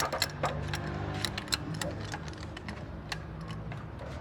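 Irregular metallic clicks and taps of hand tools working on a car engine's valve gear, over a steady low hum.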